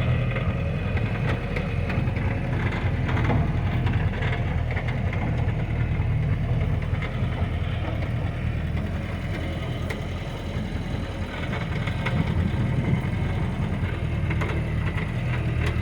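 1959 Jeep's engine running steadily at low speed off-road, heard from inside, with scattered rattles and knocks as it goes over rough ground.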